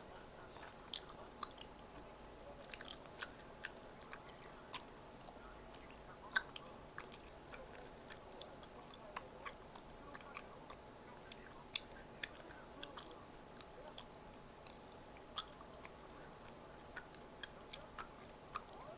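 A person chewing food close to the microphone, with many short, sharp, irregular mouth clicks and crunches.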